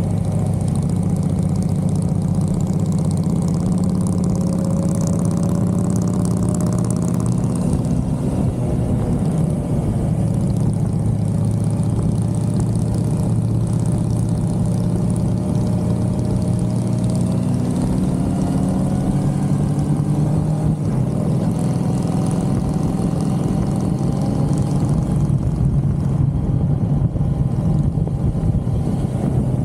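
1982 Suzuki GS550L's air-cooled inline-four engine running steadily under way, its pitch rising gently a few times, with wind rushing past.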